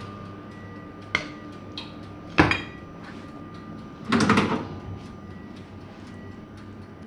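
Kitchenware being handled: a few sharp knocks and a short clatter. The loudest is a knock with brief ringing about two and a half seconds in, and a rattling clatter follows about four seconds in, over a steady faint hum.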